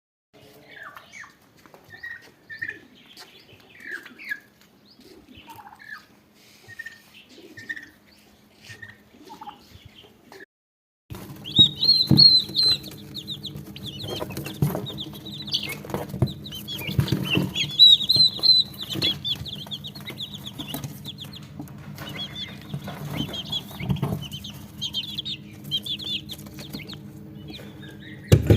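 A flock of domestic poultry with their young, clucking and giving many short, high peeping calls. About 11 seconds in, the sound suddenly gets much louder and busier, with dense high trilling peeps over a steady low hum.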